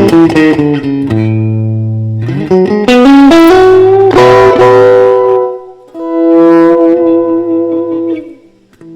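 Solo electric guitar, a Fender Stratocaster, playing a song's closing phrase: runs of picked notes, then a held chord that rings and fades out near the end.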